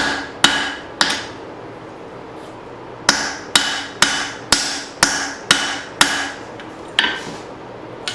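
Hammer blows on hot leaf-spring steel over an anvil, drawing out and thinning a hatchet blade. Three quick blows, a pause of about two seconds, then a steady run of about seven blows at two a second and one more a second later, each with a short metallic ring.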